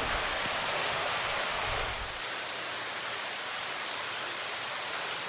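Steady rush of water pouring and splashing from a limestone cave's ceiling in curtains, echoing in the cave. About two seconds in it turns thinner and hissier, with less low rumble.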